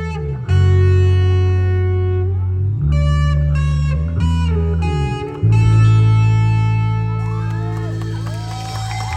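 Live band of guitars, bass and drums playing the closing instrumental bars of a pop-rock song: held chords, a run of short stabbed hits, then a final chord left ringing. Audience shouts and cheers rise near the end.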